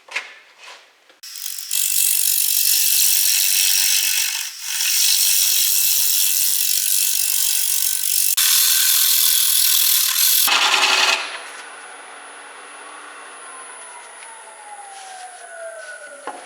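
A turning tool cuts into a spalted oak bowl blank spinning on a wood lathe, making a loud, steady rushing noise for about ten seconds with a brief break partway through. The cutting then stops suddenly, and the lathe runs on more quietly, its whine falling in pitch as it slows.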